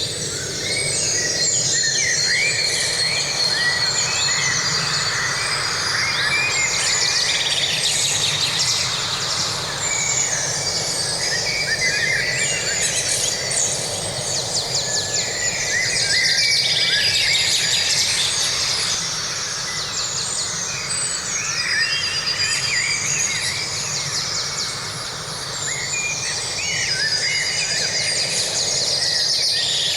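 Forest birdsong: many birds chirping and trilling at once, overlapping throughout, over a steady low rushing background noise.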